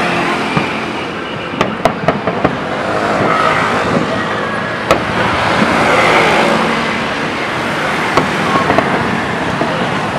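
Fireworks going off over crowd chatter: a steady rumble of noise broken by sharp cracks, a quick cluster about two seconds in, a single one near the middle and a few more near the end.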